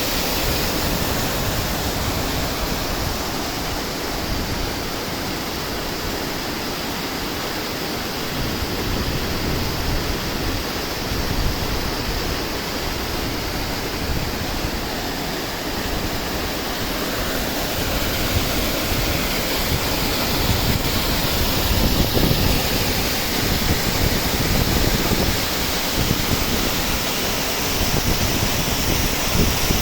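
Guadalmedina river water rushing and splashing in a steady, loud roar of flowing water, with uneven low rumbles of wind on the microphone in the second half.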